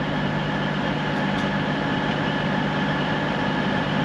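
CrossCountry Voyager diesel multiple-unit train idling, with a steady low engine hum and hiss.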